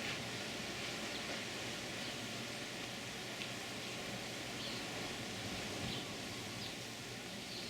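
Steady wash of ocean surf breaking, heard from a balcony, with a few faint short high chirps over it.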